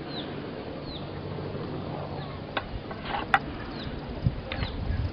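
Small birds chirping in short, quick, falling notes every half second or so, with a couple of sharp clicks midway through.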